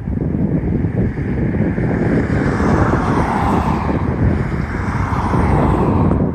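A vehicle passing, its sound swelling and then fading over a steady low rumble of wind on the microphone.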